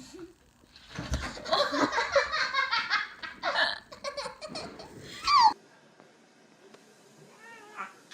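Someone laughing hard in rapid bursts for about four and a half seconds, cutting off suddenly about halfway through.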